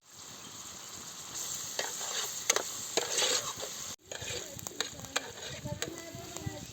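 Food sizzling and frying in a pan while being stirred, with a steady hiss and frequent clicks and scrapes of the utensil against the pan.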